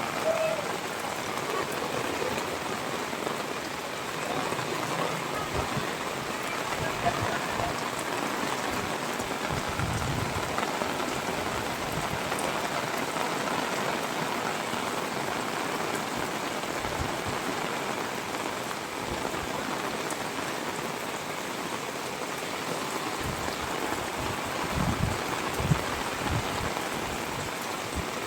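Steady rain falling and pattering on surfaces, with a few soft low thumps now and then.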